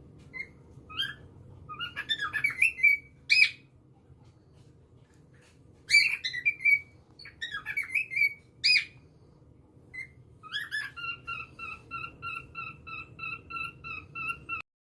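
Cockatoo calling: scattered squawks and whistled chirps, then near the end a fast, even run of short repeated notes, about four or five a second, that cuts off suddenly.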